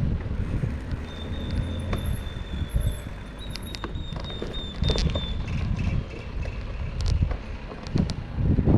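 Wind buffeting the microphone during a bicycle ride, with a low rumble and scattered light clicks and rattles.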